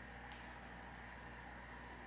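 Faint crackle of a freshly lit small wood fire in a homemade fan-guard fire pit, with cedar leaves as tinder; one sharp snap comes about a third of a second in, over a steady low hum.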